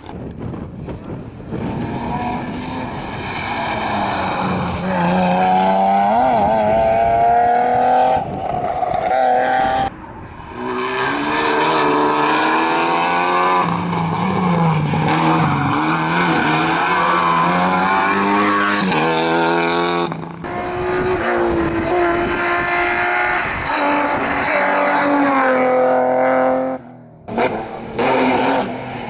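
Rally cars being driven hard past the roadside, engines revving high and dropping back through gear changes. Several passes are cut together, so the sound breaks off suddenly a few times.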